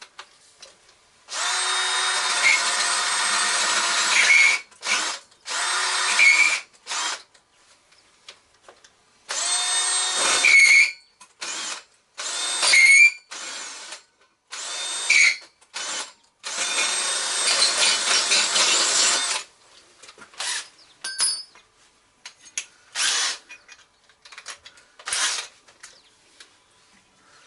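Electric drill run in a series of bursts of one to three seconds each, with pauses between them, and a few short blips toward the end.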